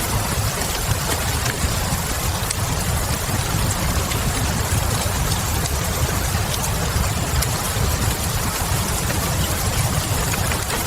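Steady rain ambience with a deep, even rumble underneath and a few soft, scattered fireplace crackles.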